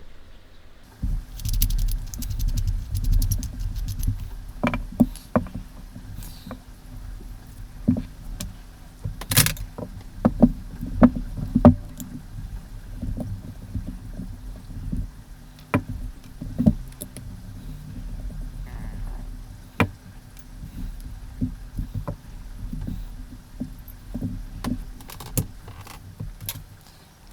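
Dynamic microphone being taken apart by hand: a low handling rumble starting about a second in, with many sharp clicks and taps of parts and tools.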